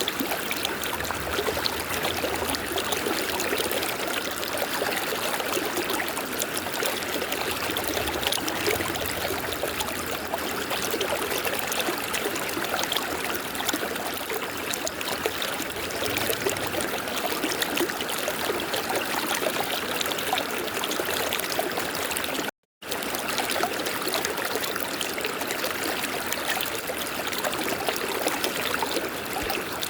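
River water flowing steadily. It breaks off in a split-second gap of silence about three-quarters of the way through.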